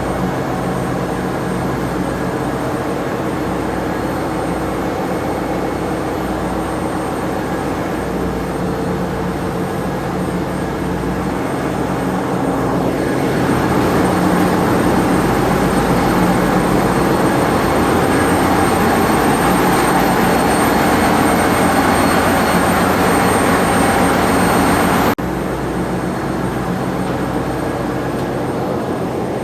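Steady drone of ship engine-room machinery, many steady tones over a constant hum. About thirteen seconds in a louder rushing noise joins it, then cuts off abruptly about twenty-five seconds in.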